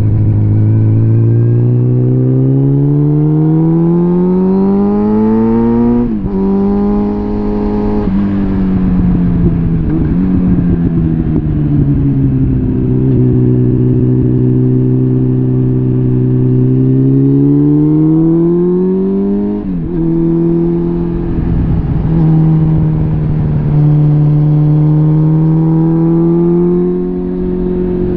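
Suzuki GSF650 Bandit's inline-four engine through a full Arrow exhaust, under way. Revs climb steadily, then drop suddenly about six seconds in at a gear change. The engine eases back and holds steady, climbs again and drops at another shift about two-thirds of the way through, then holds a steady pitch.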